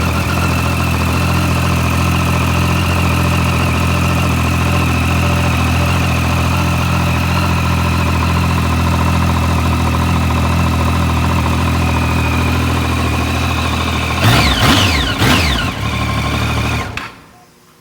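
2013 Triumph Street Triple R's 675 cc inline-three engine idling steadily with a thumping knock that the owner places in the bottom end. It is blipped a couple of times near the end, then shut off, cutting out suddenly.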